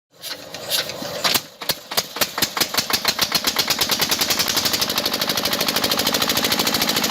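A small machine starting up with a rapid mechanical knocking: first a few irregular knocks, then faster and faster, settling into an even rattle of about a dozen knocks a second.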